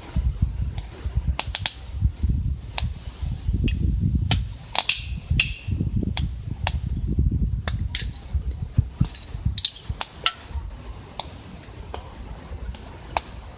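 Wood fire crackling in a camp stove: irregular sharp pops and snaps, thickest in the first half, over a low uneven rumble.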